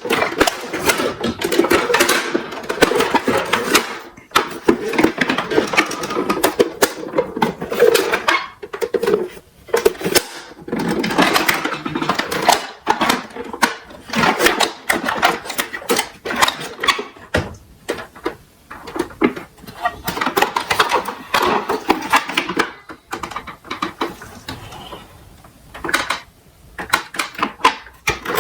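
Plastic toy garbage trucks rattling and clattering as they are run down a slope, a dense stream of clicks and knocks that comes in waves with short lulls.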